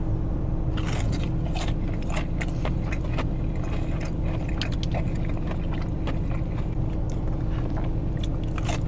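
Biting into and chewing crispy breaded chicken tenders: a run of crackling crunches beginning about a second in. A steady low hum runs underneath.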